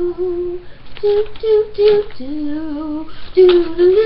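A young female voice singing a short tune in held notes that step up and down, with brief breaths between phrases.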